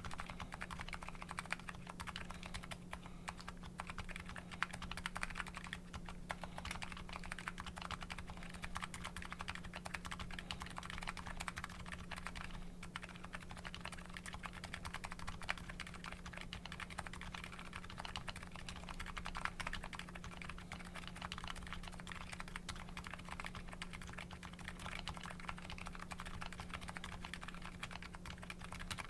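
Fast, continuous typing on a Nuxros Kraze custom mechanical keyboard fitted with MetaKeebs MetaPulse electrocapacitive switches, a dense run of keystroke clicks. A steady low hum runs underneath.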